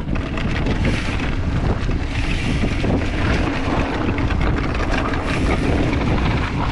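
Wind buffeting the microphone of a mountain biker's action camera while riding at speed, a steady, heavy rumble.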